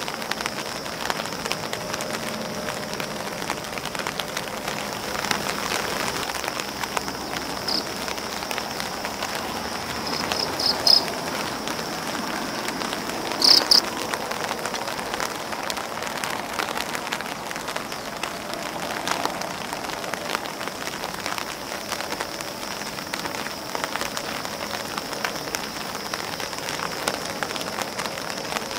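Rain falling on grass leaves and an umbrella: a steady, even patter of many drops. A few short high chirps stand out about a third of the way in and again near the middle.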